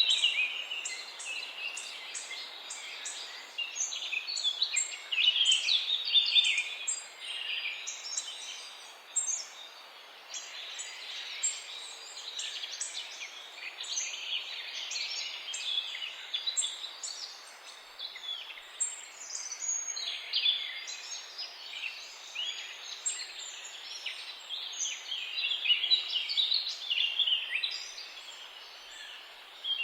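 Many songbirds chirping and singing at once in a busy morning chorus: dense, overlapping high chirps and quick trills, some calls louder and nearer than others.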